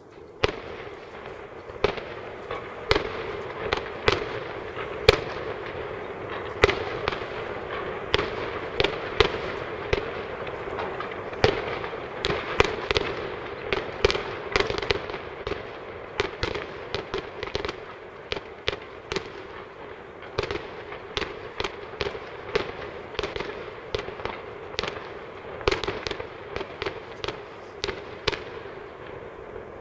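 Aerial fireworks shells bursting in quick succession: a dense run of sharp bangs and crackles, with the loudest reports about half a second, five, six and a half and eleven and a half seconds in, thinning out toward the end.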